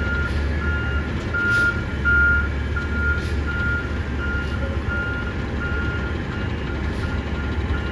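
Garbage truck's backup alarm beeping about twice a second while the truck reverses, over the low steady running of its engine.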